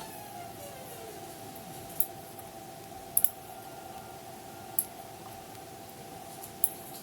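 A few sharp computer mouse clicks, single and one quick double click, spaced a second or more apart over a steady hum with a faint tone.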